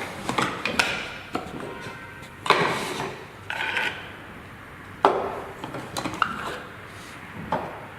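Parts from a deep-well submersible pump's stages, such as impellers, cover plates and gaskets, being handled and set down one by one on a work surface: scattered clicks and knocks, with a few louder clattering knocks and some rubbing.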